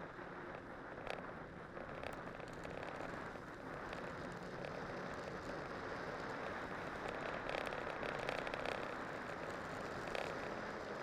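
Cyclocross bike with spiked winter tyres rolling downhill over snow and ice: a steady rushing rolling noise with scattered small crackles and ticks, growing slowly louder as the bike gathers speed.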